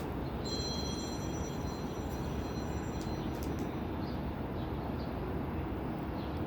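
NJ Transit train running past with a steady rumble. A high squeal made of several steady tones comes in about half a second in and stops a little past halfway.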